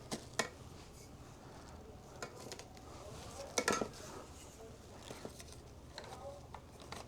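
A few light clicks and knocks, with a cluster about three and a half seconds in: a vacuum hose and accessory tools being handled and fitted into their storage holder.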